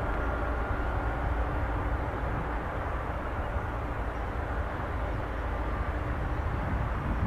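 Jet airliner engines: a steady rumble with faint high whining tones over it.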